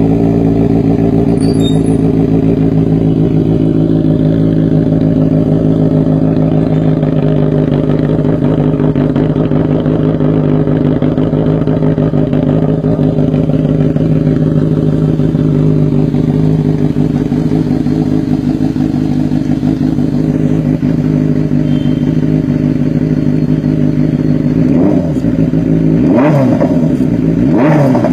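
Benelli TNT 600i's inline-four engine, breathing through an aftermarket Toce exhaust, idling steadily. Near the end it is blipped about three times, each rev rising sharply and dropping straight back to idle.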